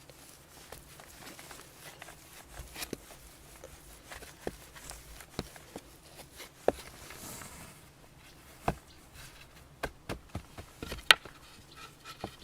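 Scattered, irregular knocks and clicks with soft rustling, as of hand work with wood and earth building materials; the sharpest crack comes near the end.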